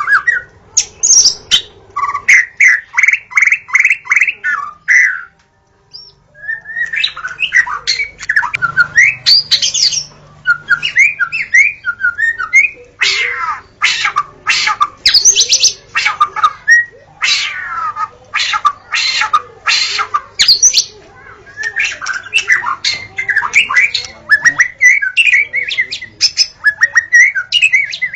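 White-rumped shama (murai batu) singing a long, varied song: fast runs of repeated notes, whistled slurs and sharp clipped notes, with a brief pause about six seconds in.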